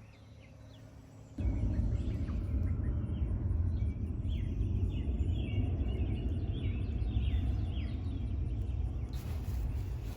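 Many short, falling chirps of young chickens, over a loud low rumble that starts suddenly about a second and a half in and eases off near the end.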